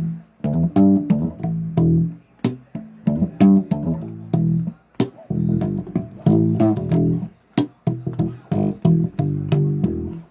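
Bass guitar played solo, a string of short low plucked riffs with sharp string-attack clicks, broken by brief pauses about 2, 5 and 8 seconds in.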